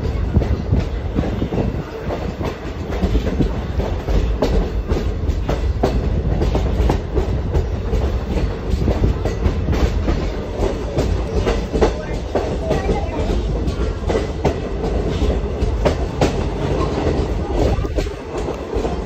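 A passenger train rolling along the track, heard from aboard a car: a steady heavy rumble with frequent irregular clicks and clacks of the wheels on the rails.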